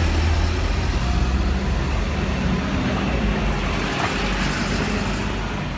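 A city bus engine running as the bus pulls away from the stop, a steady low rumble.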